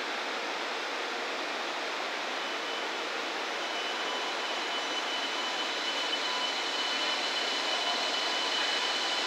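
700 series Shinkansen train pulling out of the station and gathering speed: a steady rush of running noise that grows slowly louder, with a thin high whine coming in about three seconds in.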